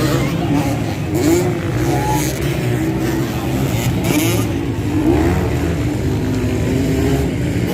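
Motocross bike engines running and revving, their pitch rising and falling as the riders throttle up and back off.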